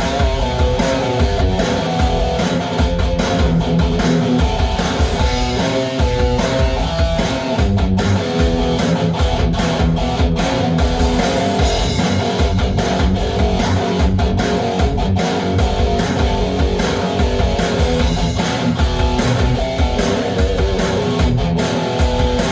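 Electric guitar playing in a loud, dense rock mix over a steady low beat.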